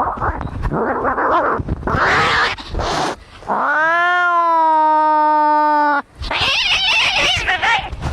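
Angry cats fighting: about three seconds of harsh, noisy snarling, then one long, drawn-out yowl that rises and then holds steady, breaking off about six seconds in, followed by harsh hissing.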